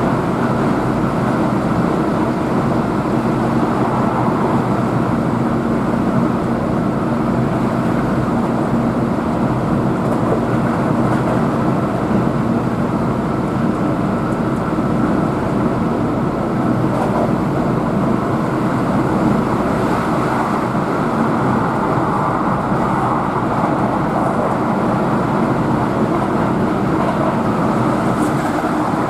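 Keihan electric limited-express train running steadily at speed, heard from inside the passenger car: a constant rumble of wheels on rail with a faint steady hum.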